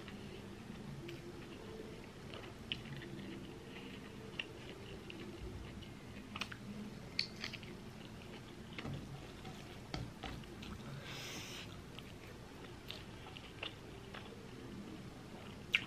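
Close-up mouth sounds of a person chewing rice and pork eaten by hand: soft chewing with scattered small wet clicks and smacks over a steady low hum. A short hissy sound comes about eleven seconds in, and a sharp click near the end.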